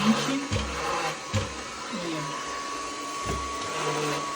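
Electrolux ERB20 robot vacuum running with a steady whir and a thin high whine that comes in about halfway, with a few dull knocks as it bumps into obstacles.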